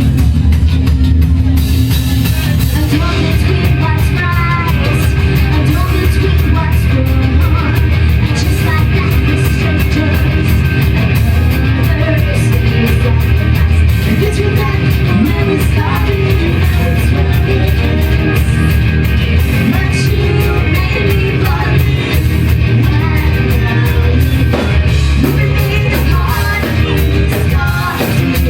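Live rock band playing loudly, with drums, amplified guitars and a singer; the sound grows fuller about two seconds in.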